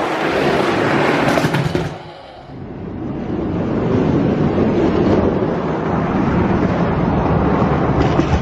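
Two Hot Wheels die-cast monster trucks rolling fast down a plastic drag-strip track: a steady rolling rumble that drops off briefly about two seconds in, then resumes.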